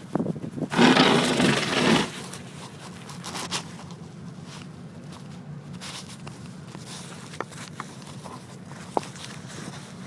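Truck engine running with a low, steady hum, after a loud rushing burst of noise lasting about a second near the start.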